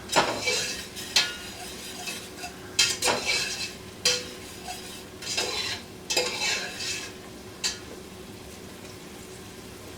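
A spoon stirring and scraping vegetables sautéing in a pot, in irregular strokes about once a second over a steady sizzle. The stirring stops near the end, leaving the sizzle.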